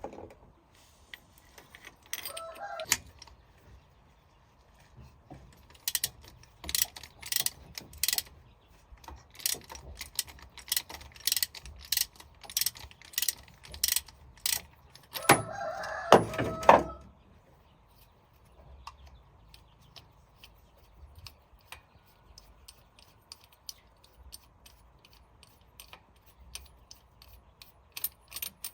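A series of sharp clicks or taps, about one or two a second, with a brief pitched call about two-thirds of the way through.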